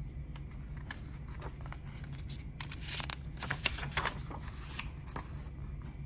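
Pages of a hardcover picture book being handled and turned: a run of papery rustles and light clicks, busiest about halfway through.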